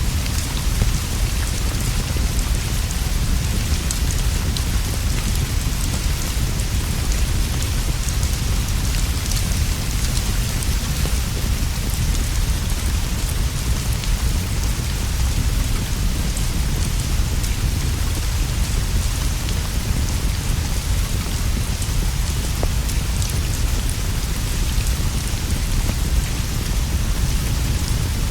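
Steady rain falling on leaves and a straw roof, with a deep constant rumble underneath and faint scattered crackles from a fireplace fire.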